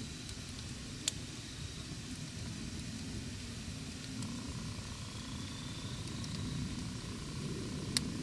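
Wood campfire burning: a steady low rumble of flames with scattered crackles, and two sharp pops from the burning wood, one about a second in and one near the end.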